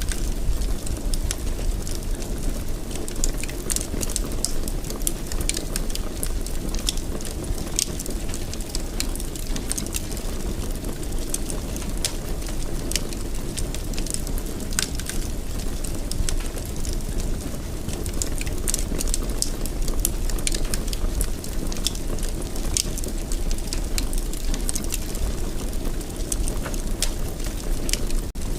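Wood fire burning in a fireplace: a steady low rumble of the flames with frequent small sharp crackles and pops throughout.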